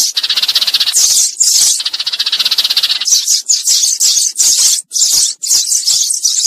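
Eurasian tree sparrows chattering loudly, first in fast rattling runs and then, about halfway through, in separate sharp chirps several a second. This is the flock-calling chatter that trappers play as a decoy to draw sparrows in.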